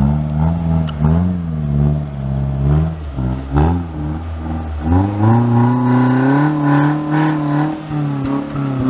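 Off-road 4x4 engine revving up and down repeatedly, then climbing at about the midpoint and held at high revs under steady load.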